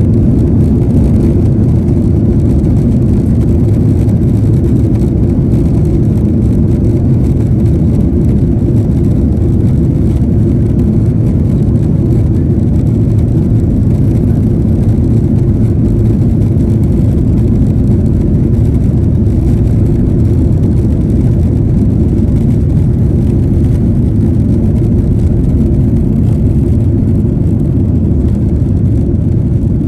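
Steady low rumble of a vehicle in motion, heard from inside, unchanging throughout.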